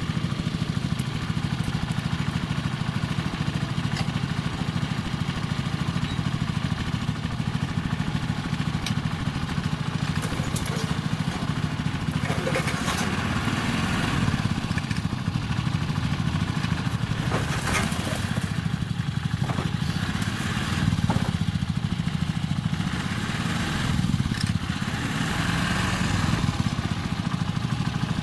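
A small engine running steadily at a constant speed, with scattered metallic clicks and knocks over it.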